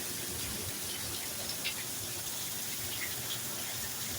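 Strong storm wind rushing steadily, with no gusts or breaks.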